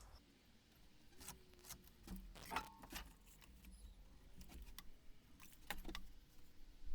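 Faint, scattered clicks and light taps, about eight over several seconds, with a faint low hum underneath: small cut pieces of 2x4 lumber being handled.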